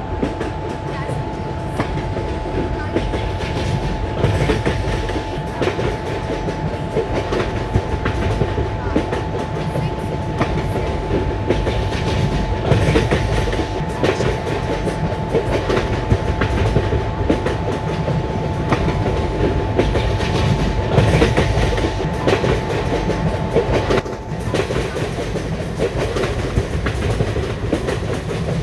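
A train rolling along the track, its wheels clicking over the rail joints, with a steady hum that stops about 24 seconds in.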